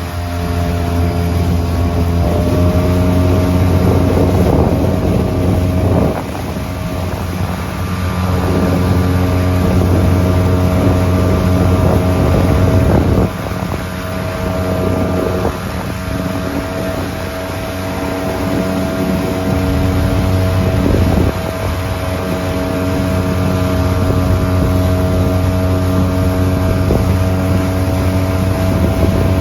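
Yamaha 4 hp two-stroke outboard motor running steadily under way in forward gear, pushing a small boat across the water. The engine note holds an even pitch, with a few brief dips in loudness.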